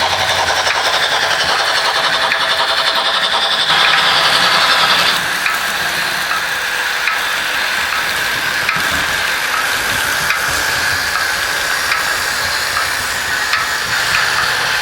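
Märklin HO model locomotive running on the track: a steady hissing whir with a few faint clicks. It grows louder for about a second near four seconds in, then settles back.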